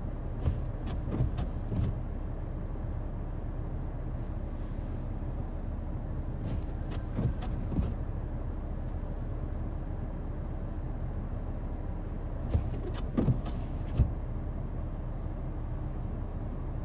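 Vehicle engine running steadily at idle, a low hum, with a few scattered knocks and clunks: a cluster near the start, two more about halfway, and several close together near the end.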